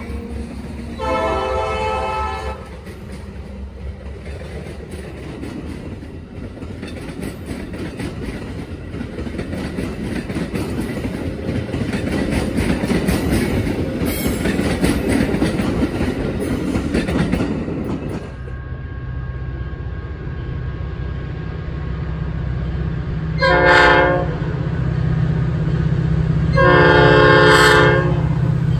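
Metra commuter train's stainless-steel bilevel gallery cars rolling past close by with a rumble that builds, after a short horn blast about a second in. About 18 seconds in, a Metra EMD F40PH diesel locomotive approaches with its engine running steadily and sounds its horn twice, a short blast and then a longer one near the end.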